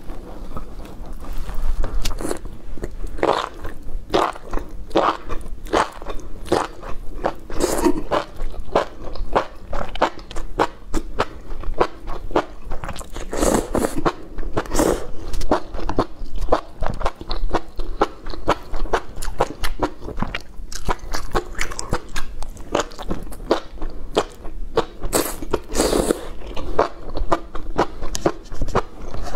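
Close-miked chewing and biting of sauce-soaked enoki mushrooms: a steady run of wet smacks and crisp bites, with a few louder slurps as strands are sucked in, about halfway through and again near the end.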